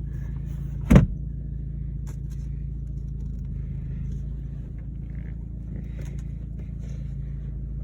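2007 Jeep Compass engine idling steadily with a low, even hum, with one sharp knock about a second in and a few faint small clicks.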